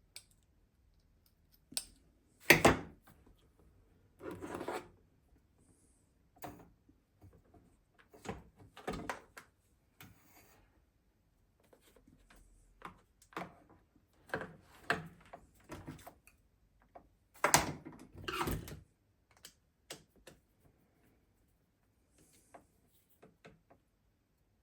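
Intermittent knocks, clicks and scrapes of parts and tools being handled during a repair, with quiet gaps between them. The sharpest knock comes about two and a half seconds in, and a cluster of louder knocks comes near the end.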